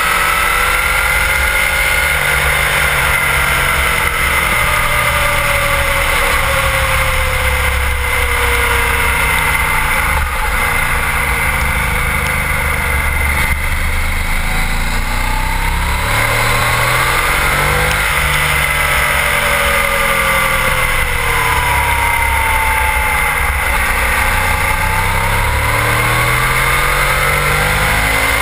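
Sport bike engine heard from a camera on the lower fairing, its pitch falling as the bike slows for a corner, rising as it accelerates out, then falling and rising once more. Heavy wind rumble on the microphone and a steady high whine run under it.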